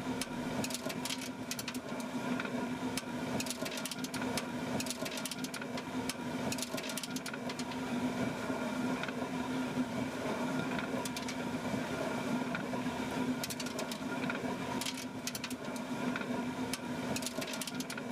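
Stone grain mill running: a steady hum from the turning millstone, with a rapid, irregular clatter of small clicks over it.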